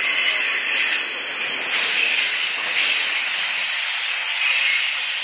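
Intermodal freight train's well cars and trailer-carrying flatcars rolling past on steel rails, a steady high-pitched rushing noise with little low rumble.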